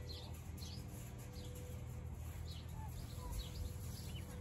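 Small birds chirping: scattered short, high calls over a steady low hum.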